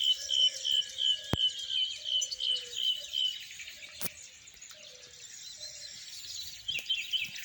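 European goldfinch chicks calling: a run of short, evenly repeated high chirps, about three a second, that stops about three seconds in. Scattered chirping picks up again near the end, with a sharp click or two.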